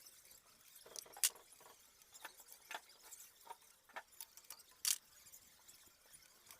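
Scattered sharp metallic clinks and taps of hand tools and engine parts being handled while an Isuzu 4HK1 diesel engine is dismantled, about eight over several seconds, the loudest about a second in and just before five seconds.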